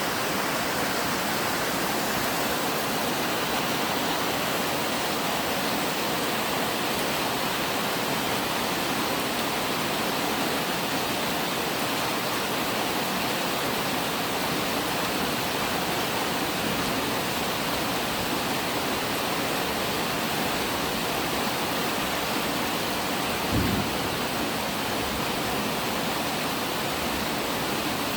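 Steady rain, falling evenly throughout, with one brief dull thump a little past the middle.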